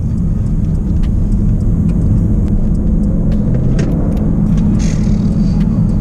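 Inside the cabin of a 2024 Jaguar F-Type, its 5.0-litre supercharged V8 and road noise make a steady low drone at a constant pace, with no revving.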